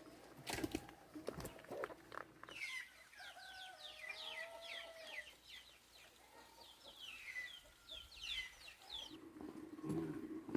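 Chickens calling: a long run of short, high peeps, each falling in pitch, lasting several seconds, with a lower wavering call among them. A few sharp knocks come before the calls begin.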